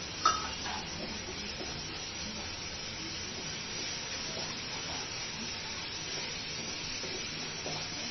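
Onion, ginger-garlic paste and spices sizzling steadily in hot mustard oil in a non-stick kadai as the masala is sautéed down, stirred with a wooden spatula. One sharp knock of the spatula against the pan just after the start.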